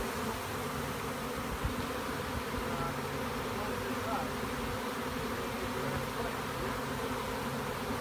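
A large swarm of honey bees in flight, a dense, steady hum of many wingbeats as the swarm leaves the tree and returns to its original hive.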